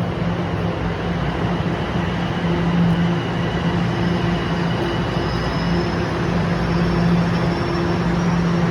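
TTC Line 1 subway train running, a steady rumble with an electric motor hum and a faint high whine.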